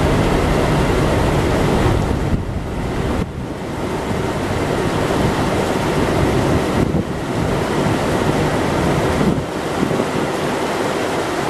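Wind buffeting the microphone aboard a moving river cruise ship, rising and easing in gusts, over a steady rush of water.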